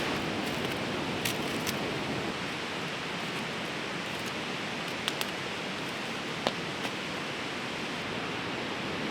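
Steady rush of a fast-flowing river, with a handful of sharp crackles and pops from a wood campfire.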